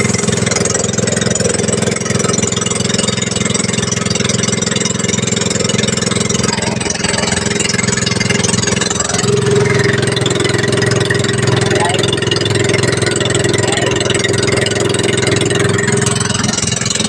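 Engine running steadily under load, with a second, higher steady tone joining about nine seconds in.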